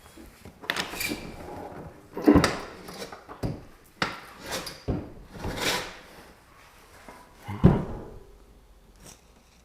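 Refrigerator drawers and doors being opened and shut: a run of knocks and clunks, the loudest about two seconds in and again near the end.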